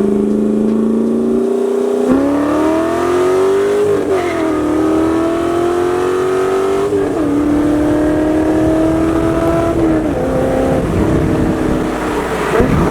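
C5 Corvette's 5.7-litre V8 under load, heard from the open cockpit: its pitch climbs steadily and drops sharply about 4, 7 and 10 seconds in as it is shifted up through the gears, then runs steadier near the end.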